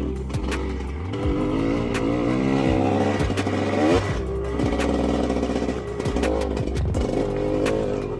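Dirt bike engine being ridden, its pitch rising and falling with throttle and gear changes, including a sharp rev climb and drop about four seconds in, with scattered short knocks.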